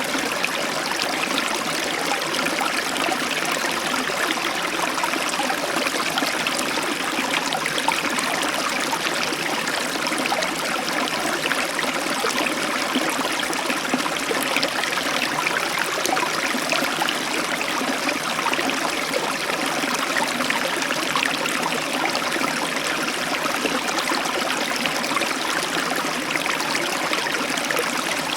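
Heavy tropical downpour, rain pouring in a steady, even hiss.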